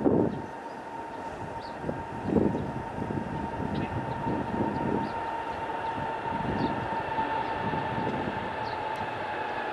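Jet airliner engines running with a steady high whine over a broad rush of noise, the whine easing slightly lower in pitch near the end, with an uneven low rumble underneath.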